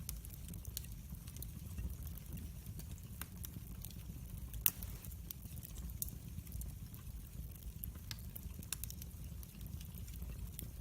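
Log fire in a fireplace crackling, with scattered sharp pops over a low steady rumble of the flames; one louder pop about halfway through.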